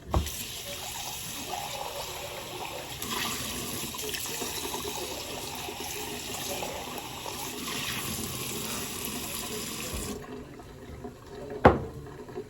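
Kitchen tap running for about ten seconds, then turned off suddenly; a single sharp knock follows about a second and a half later.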